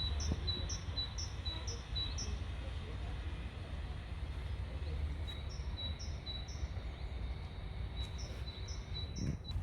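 A small songbird repeating a short, high two-part note about three times a second, in three runs near the start, in the middle and near the end, over a steady low rumble.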